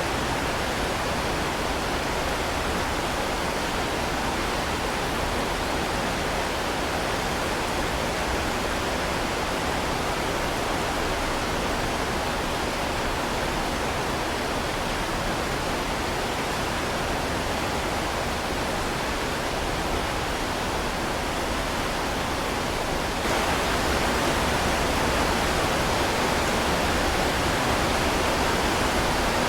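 Heavy rain falling steadily, a dense, even hiss. It steps up slightly louder about 23 seconds in.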